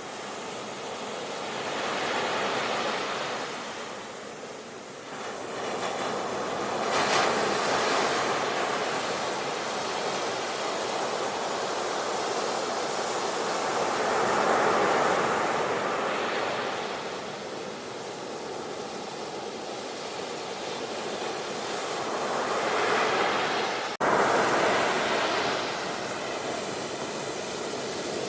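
Sea waves breaking and washing ashore, the surf swelling and falling away every several seconds. Near the end the sound briefly cuts out and comes straight back loud, like a splice in the recording.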